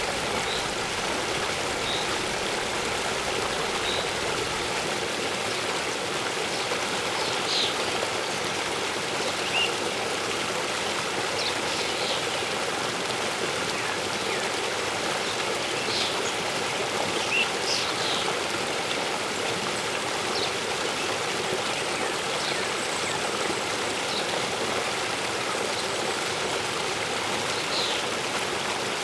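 Small waterfall splashing steadily into a stream, with birds chirping now and then in short high notes.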